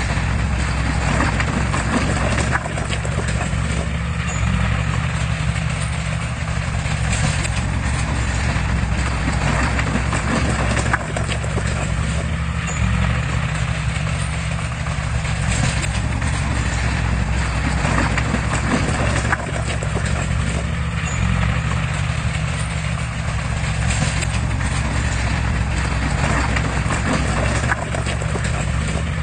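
Heavy construction machine's diesel engine running steadily, with repeated clattering knocks over it.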